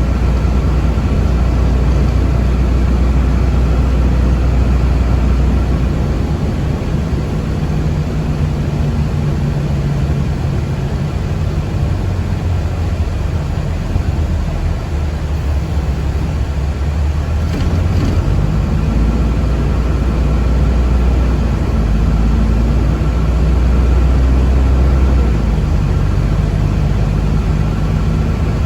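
Cabin noise inside a moving city public-transport vehicle: a steady low rumble of the drive and tyres on the road, shifting in pitch a few times, with a faint steady whine above it.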